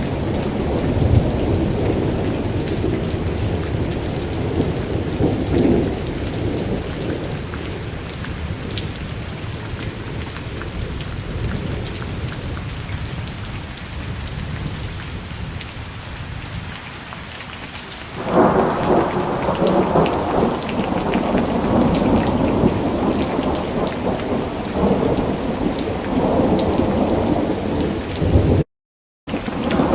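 Thunderstorm: steady rain hiss with rolling thunder. The rumble dies away through the middle, then a loud peal of thunder breaks in suddenly about two-thirds of the way through and rumbles on. The sound cuts out completely for a split second near the end.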